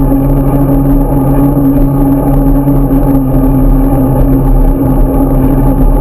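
Engine running steadily, a loud, even hum whose pitch does not change.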